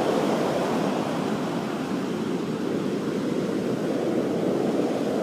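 Heavy surf from an approaching hurricane breaking along the shore, heard as a steady rushing noise with no single wave standing out.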